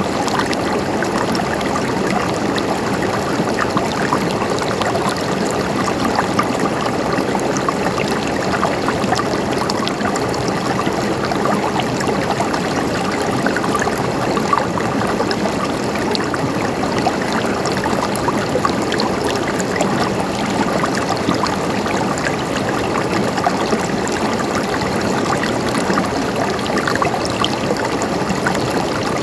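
Water flowing and gurgling steadily over rocks in a stream, a continuous splashing rush with small trickles flickering through it.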